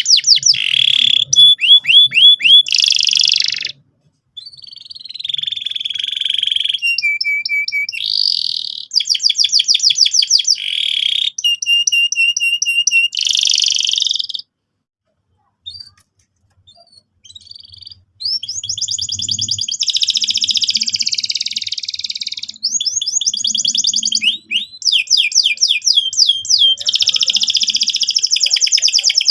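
Domestic canary singing in full song: fast rolling trills and rapid repeated chirps, high-pitched. There is a break of about three seconds a little past the middle.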